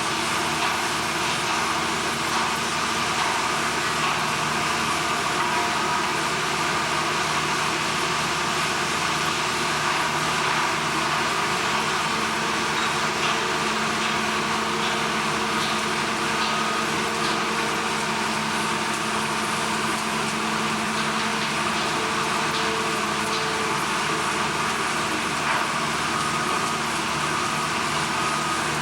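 Steady industrial machinery din with several constant hum tones over a wide noisy roar and a few faint ticks, unchanging throughout.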